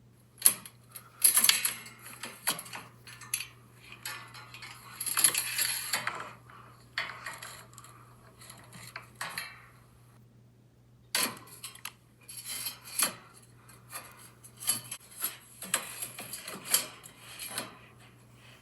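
Irregular light clinks and clattering of small hard objects being handled, with a pause about ten seconds in, over a steady low hum.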